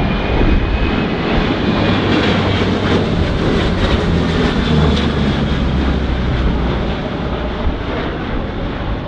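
Large multi-engine military patrol aircraft passing low overhead during a simulated torpedo run, a steady engine noise that swells to its loudest about halfway through and eases off toward the end.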